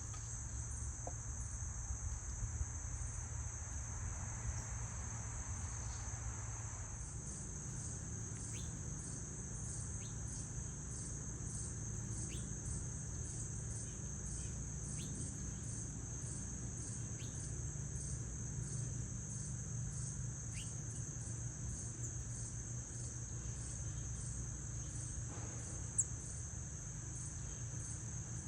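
Insects chorusing: a steady high-pitched trill with a regular pulse, like crickets, over a low steady hum. A few short high chirps and one sharp click near the end.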